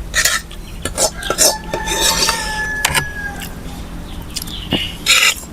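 Utensils and dishes clinking and scraping during a meal, a few sharp knocks, with one metal strike about a second in ringing on for about two seconds.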